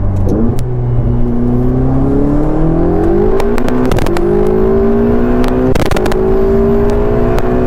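Ferrari 488 GTB's twin-turbo V8 accelerating hard, heard from inside the cabin. The engine note climbs steadily and drops back with quick dual-clutch upshifts about four and six seconds in.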